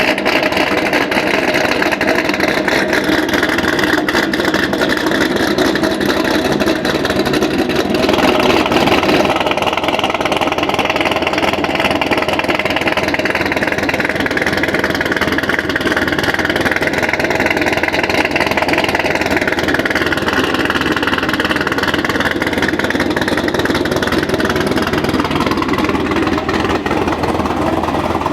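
2006 Corvette Z06's 7.0-litre LS7 V8 idling after a cold start, through long-tube headers, an X-pipe and a Corsa exhaust with no catalytic converters. The idle is steady and loud.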